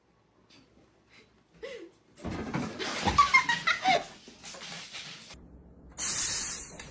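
Person laughing loudly for a couple of seconds, starting about two seconds in. Near the end it is cut off by a sudden loud hissing noise.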